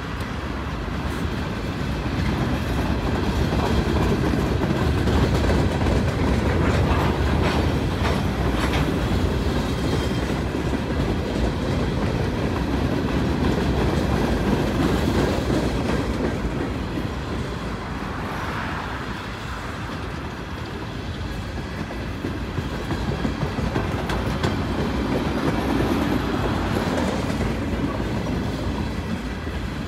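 A long string of empty Norfolk Southern coal hopper cars rolling slowly past, steel wheels clicking over the rail joints. The rumble swells and eases as the cars go by.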